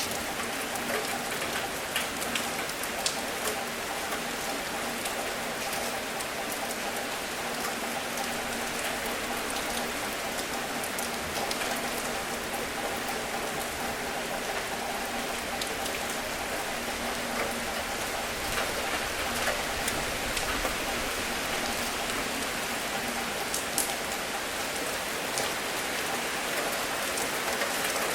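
Steady rain falling on a surface, a constant hiss with many individual drops ticking and pattering through it.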